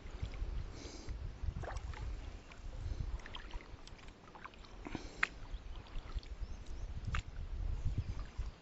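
Scattered light knocks and clicks of gear being handled in a plastic fishing kayak, over a low rumble.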